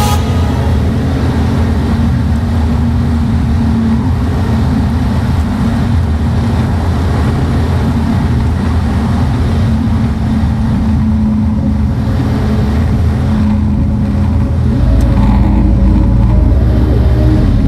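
Daihatsu mini truck's engine running while driving, a steady low drone that gets louder about fifteen seconds in.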